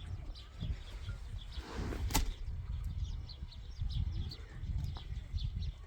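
Small birds chirping repeatedly over a low rumble, with one sharp click about two seconds in.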